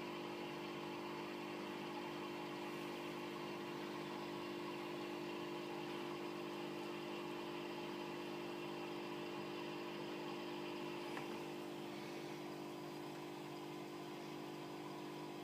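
A steady electric motor hum: a few low tones held without change, with faint hiss above.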